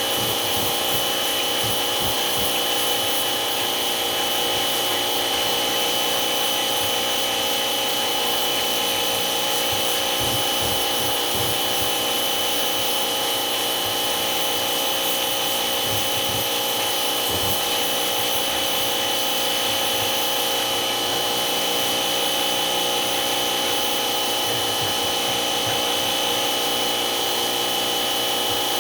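A small electric motor running steadily with a constant high whine and an even rubbing noise, with occasional low knocks.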